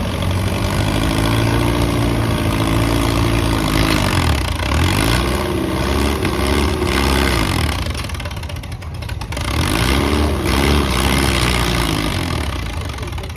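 Case VAC tractor's four-cylinder engine working under load against a pulling sled, its pitch rising and sagging in three surges, with a quieter dip in the middle. It is bogging down, which the announcer puts down to the tractor being geared too high.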